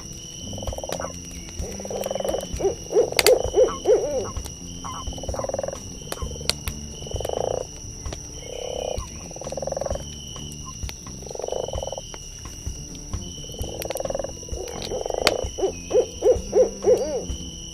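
Night forest ambience: an owl hooting, with a low call repeating about every second and a half and two quick runs of notes, one about three seconds in and one near the end. A steady high insect trill runs beneath, with scattered crackles from a campfire.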